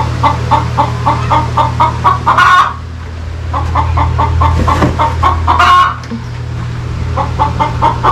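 A hen cackling: a run of quick clucks, about four a second, climbing to a loud drawn-out squawk about two and a half seconds in, then a second run ending in another squawk near six seconds. A steady low hum runs underneath.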